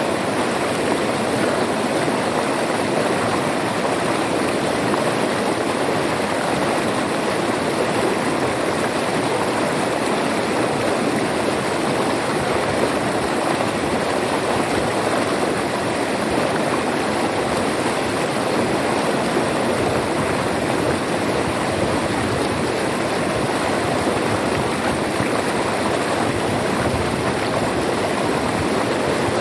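River water flowing and rushing over rocks, a steady unbroken babble.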